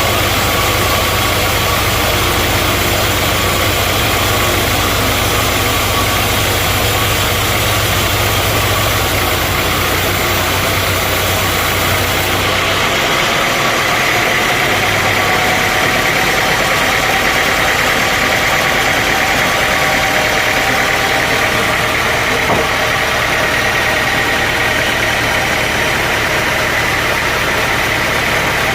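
Sawmill machinery running steadily. About 12 seconds in the deep rumble drops away and a steady high whine comes up.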